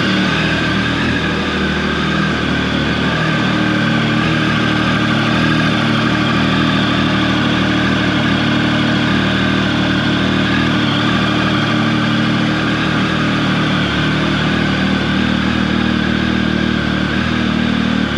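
Triumph Tiger 1050's inline three-cylinder engine running at a steady, raised fast idle while warming up from a cold start.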